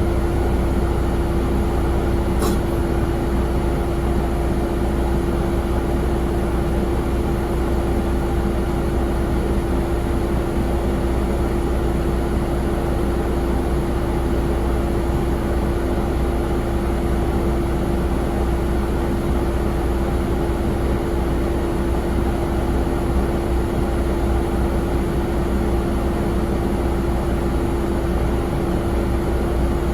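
Steady jet airliner noise: a constant low rumble with a held mid-pitched hum running evenly throughout.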